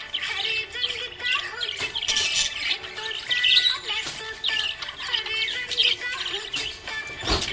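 Small pet parrots chirping and twittering rapidly and continuously, with a few squawks, over background music with held notes. A sharp click comes near the end.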